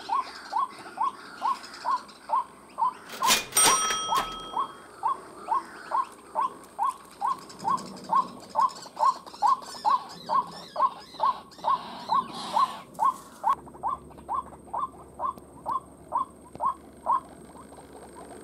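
White-breasted waterhen call: a short note repeated evenly about two and a half times a second, stopping near the end. A brief sharp noise with a ringing tone cuts in about three and a half seconds in.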